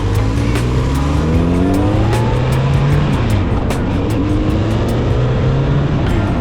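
Yamaha DT-1F's 250 cc single-cylinder two-stroke engine revving up, its pitch climbing, falling away about halfway through, then climbing again.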